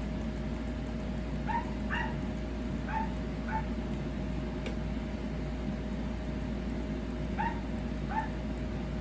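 A dog barking in short, high yips, six of them in two groups, not far above a steady electrical hum with a thin constant tone. There is one sharp click about halfway through.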